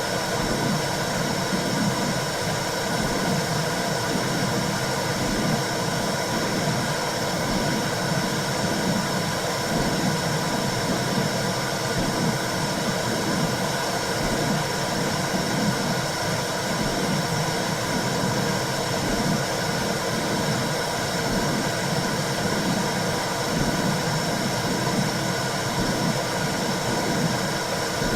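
Womb sound for calming a newborn: a steady whooshing noise like blood flow, with a low, regular pulsing underneath.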